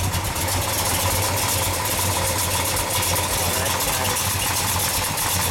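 1968 Dodge Coronet R/T's 440 Magnum V8, fitted with Hooker headers and a cam a little bigger than stock, idling steadily.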